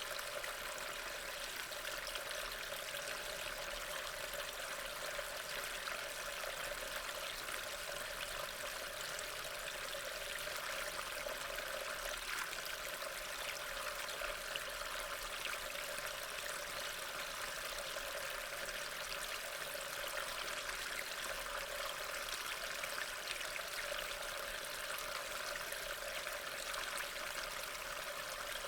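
Steady rain falling: an even, unbroken wash of water noise.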